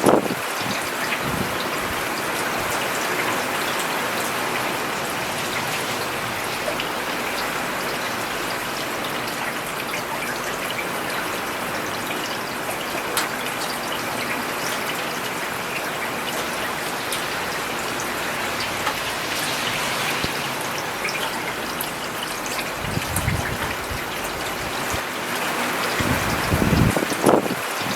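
Steady rain falling on a road, an even patter of drops with fine crackle. Near the end a low rumble swells up twice, the second time louder.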